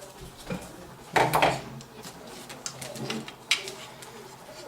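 Computer parts being handled, knocking and clicking: a loud clatter just over a second in and a sharp click about three and a half seconds in.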